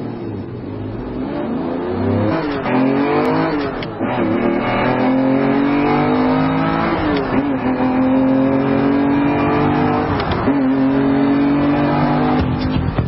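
Car engine revving hard and accelerating, its pitch climbing and then dropping sharply about four times.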